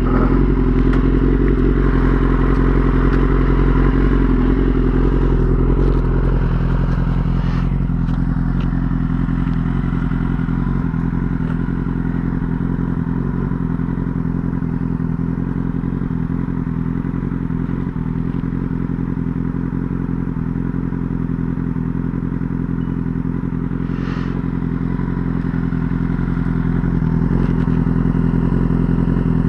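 Yamaha YZF-R6 inline-four engine running at a steady cruising speed, easing slightly about six seconds in and picking up a little near the end.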